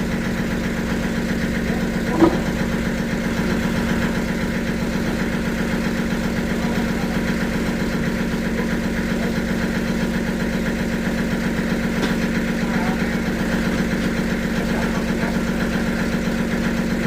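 Sawmill machinery running steadily with a constant low hum, and a single short sharp knock about two seconds in.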